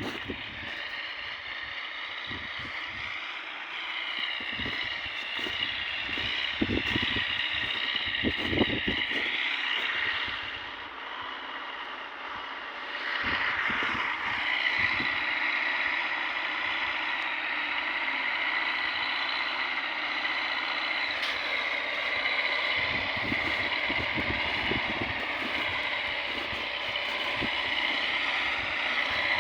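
An engine running with a high whine whose pitch wavers, easing off briefly about ten seconds in and then running steadily again, with scattered low knocks and thumps.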